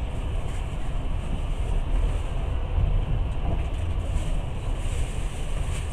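Passenger train running along the track: a steady low rumble of the wheels and carriage.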